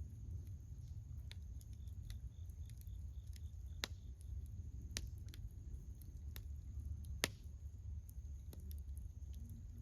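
Wood bonfire crackling: scattered sharp pops and snaps, the loudest about seven seconds in, over a low steady rumble.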